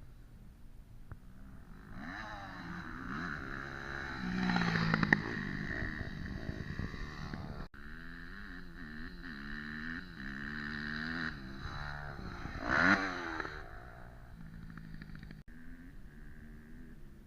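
Motocross bike engines revving up and down, their pitch rising and falling over and over, with two louder swells about four seconds in and near the thirteen-second mark.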